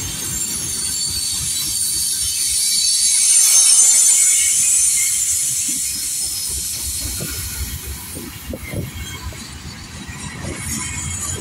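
Freight train of boxcars and tank cars rolling past at close range, its steel wheels giving a high-pitched squeal that swells to its loudest about four seconds in and then fades. Under it runs the low rumble of the wheels on the rail, with uneven knocks in the second half.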